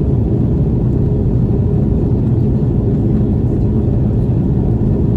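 Steady low rumble of an Airbus A330-300 heard from inside the economy cabin: engine and airflow noise, even and unbroken.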